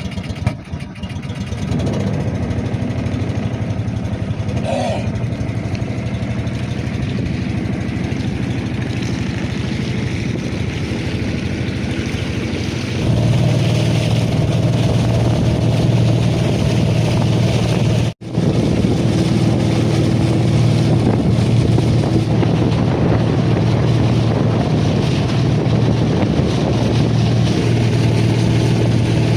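Small fishing boat's motor running steadily under way, growing louder about 13 seconds in, with a brief dropout near 18 seconds.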